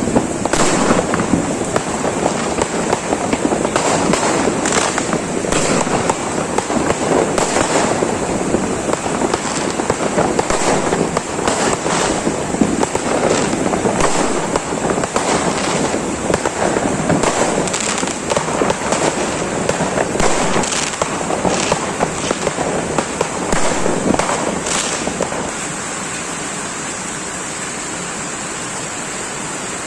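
Heavy rain pouring down, with a dense crackling patter of drops hitting close by. Near the end the crackle thins into a steadier, smoother rush of rain.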